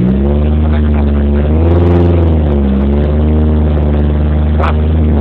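A car engine revved up and held at high revs, its pitch wavering slightly up and down, then starting to drop at the very end. A short sharp click sounds near the end.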